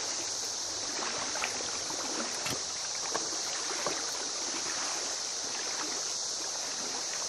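Steady high-pitched buzz of a cicada chorus over the rush of river water, with a few faint ticks or small splashes.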